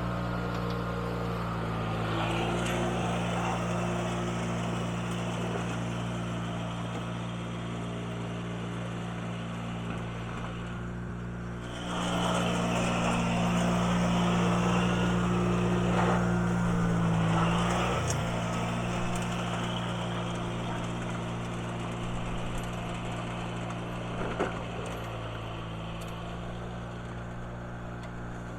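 1980 International Harvester Cub Cadet garden tractor engine running steadily, louder for about five seconds around the middle.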